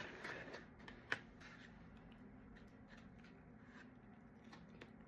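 Near silence with faint handling noise: soft rustles and small clicks, with one sharper click about a second in.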